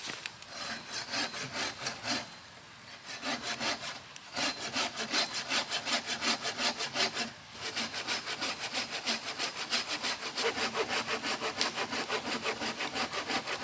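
Small handsaw cutting into the trunk of a standing dead tree in quick, even back-and-forth strokes, cutting the wedge-shaped notch that sets the direction of fall. The sawing stops briefly about two seconds in and again a little past halfway, then carries on.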